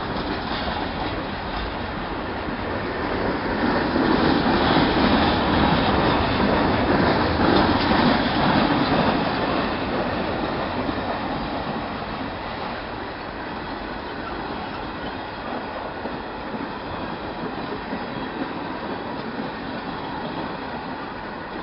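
Freight train of open-top gondola cars rolling past on the rails, louder from about four seconds in to about nine, then gradually quieter.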